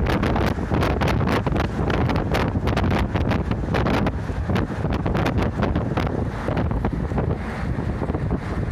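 Local route bus driving along, heard from inside the cabin. Steady engine and road noise, with wind buffeting the microphone and frequent rattling clatter.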